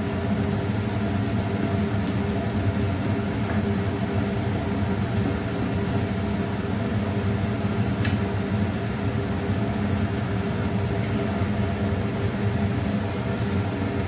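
Steady mechanical hum of a kitchen appliance or fan, a low drone with an even hiss over it, running unbroken. A faint click comes about eight seconds in.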